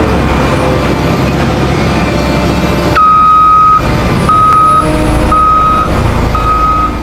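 A heavy vehicle's engine running with a dense rumble. About three seconds in, a reversing alarm starts beeping: four steady beeps about a second apart, the first one longer than the rest.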